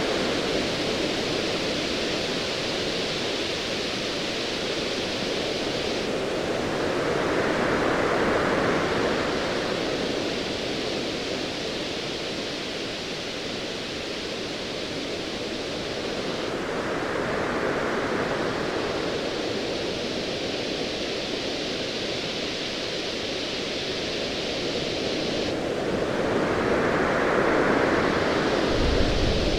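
Ocean waves swelling and washing in roughly every nine to ten seconds over a steady surf hiss, with a low rumble of distant thunder beginning near the end.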